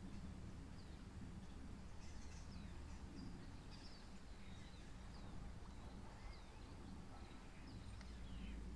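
Faint birds chirping: many short, high, falling chirps over a steady low background rumble.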